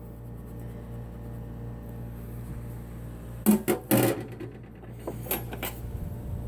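Light clatter of kitchen dishware being handled: a short run of clinks and knocks about three and a half seconds in, then a couple of fainter clicks, over a steady low electrical hum.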